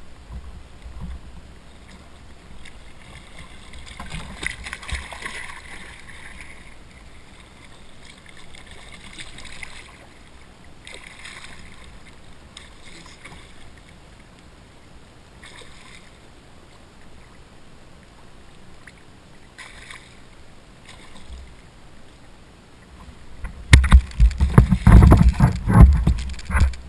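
Water sloshing and splashing softly around a fishing kayak, coming and going. Near the end a much louder burst of rumbling, knocking noise lasts about three seconds.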